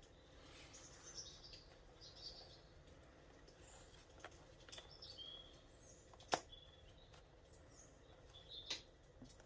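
Faint birdsong, short high chirps and whistles, with a few sharp clicks and pops scattered through it. The loudest pop comes about six and a half seconds in, and another comes near the end.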